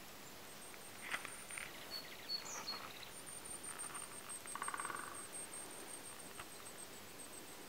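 Small birds calling sparsely in a quiet snowy forest: a few short chirps and calls, then a brief rapid rattling call about four and a half seconds in, over a faint steady hiss.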